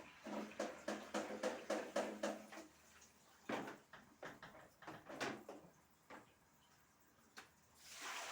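Household things being handled: a quick run of light knocks and clinks, then a few more, like dishes or objects being set down. Near the end a steady rush of running water starts, as from a tap.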